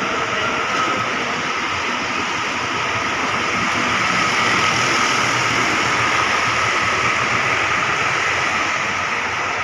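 Steady heavy rain hissing down on wet pavement and bus roofs, with the low running of a bus engine close by underneath.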